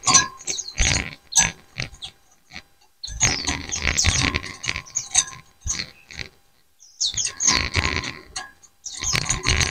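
A flock of white-eyes (pleci) chattering to one another in dense bursts of quick, sharp calls, with two brief pauses.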